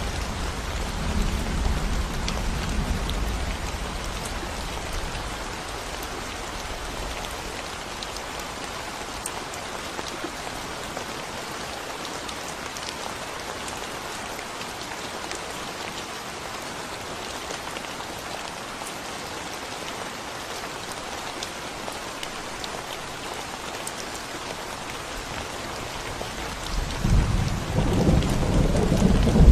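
Steady rain falling on a concrete road, a continuous hiss with scattered drop ticks. A low rumble of thunder fades away over the first few seconds, and another rolls in louder about three seconds before the end.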